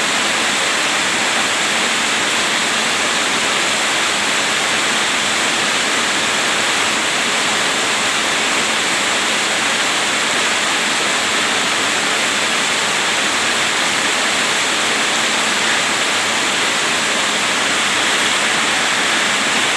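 Heavy rain pouring down, a loud, steady, even hiss with no breaks or changes.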